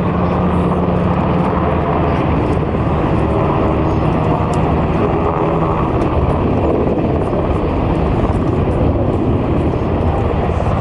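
HH-60G Pave Hawk helicopter running steadily and loud: its rotor and twin turboshaft engines, with a steady low hum under a dense rush of noise.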